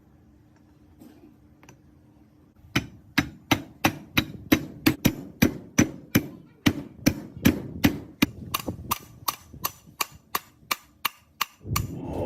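Hammer striking metal in a steady run of blows, about two to three a second, starting about three seconds in, each blow ringing briefly.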